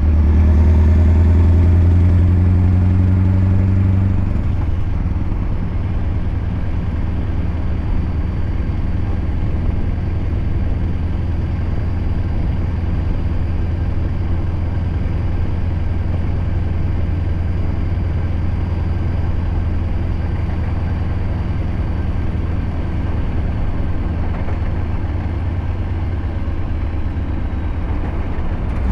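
Scania R580 16.4-litre V8 truck engine with a straight-piped exhaust, running. It pulls loud and low for the first four seconds, then eases off and runs at a steady, lower drone.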